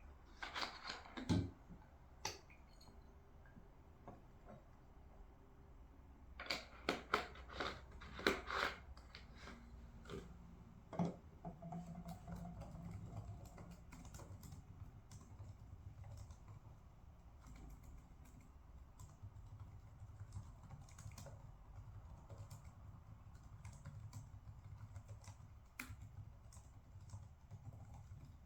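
Intermittent typing on a computer keyboard: short runs of quick key clicks, busiest in the first couple of seconds and again about seven to nine seconds in, then only scattered taps over a steady low room hum.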